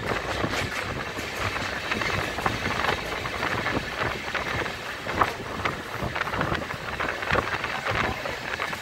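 Passenger train running along the track, heard from beside the moving coach: a steady rush of wind on the microphone with the wheels clicking and clattering irregularly over the rails.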